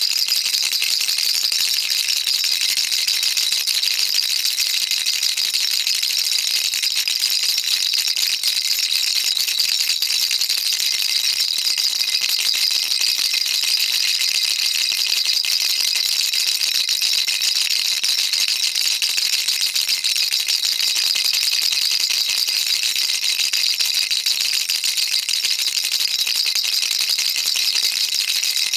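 Baby rattle shaken without a break, a dense, steady stream of fine rattling clicks with a bright, high sound.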